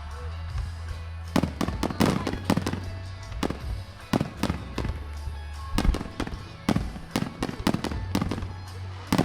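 Fireworks shells bursting in quick succession, with sharp cracks and bangs starting about a second in. Underneath runs music with a steady deep bass line.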